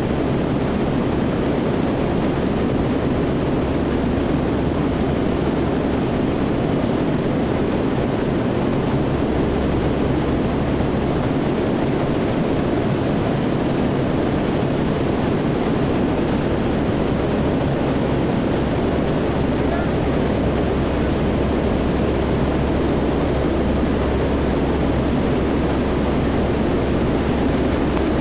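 Steady drone of a C-130 Hercules' four turboprop engines and propellers in cruise, a constant loud rush of noise over a low hum, as heard from aboard the aircraft.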